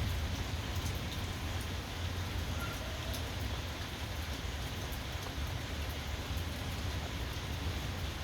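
Steady rain falling, with fine drop patter and a low rumble underneath.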